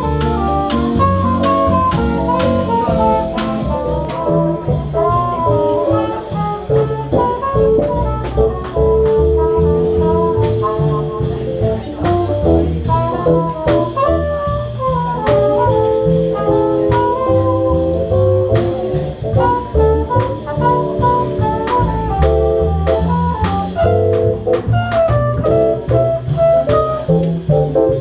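Live swing band playing an instrumental jazz passage: a lead melody line over a walking bass and drum kit, with no vocals.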